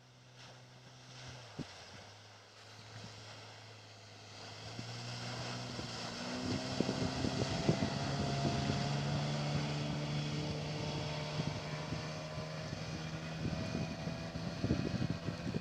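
Outboard motor on an inflatable PVC boat, first running low and steady, then speeding up about four or five seconds in to a steady, higher, louder hum as the boat gets under way. Irregular buffeting noise runs over it in the second half.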